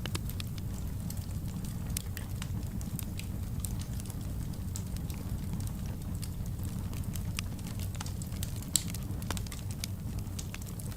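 Wood fire burning in a fireplace: a steady low rumble of the flames with frequent sharp crackles and pops, one louder pop about nine seconds in.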